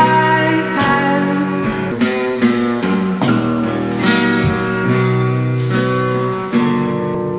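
Song recording in an instrumental stretch: strummed guitar chords that change every second or so, with no singing.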